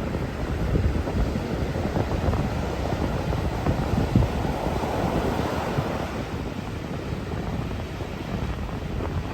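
Strong wind buffeting the microphone with a low rumble, over heavy waves surging onto the shore; one wave swells up about four seconds in and fades by six.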